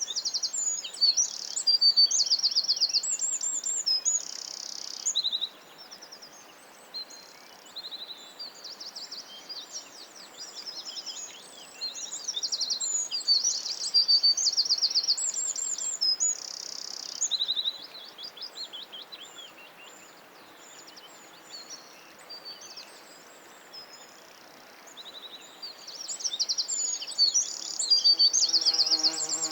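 Several songbirds singing in a forest, in quick overlapping high-pitched trills and chirps over a faint hiss, with a quieter stretch in the middle.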